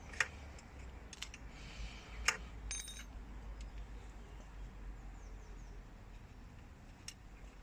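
Quiet metallic clicks and scraping of an Allen key turning the bolt that holds the baffle in a scooter exhaust, with two sharper clicks and a short ringing metal clink about three seconds in.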